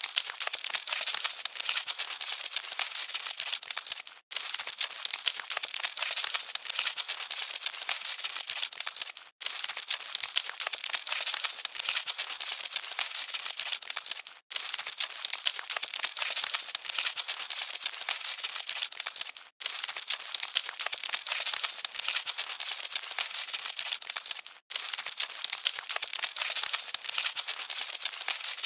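Cockroaches scuttling: a dense, scratchy crackle of many tiny clicks and rustles, repeating as a short loop that breaks off briefly about every five seconds.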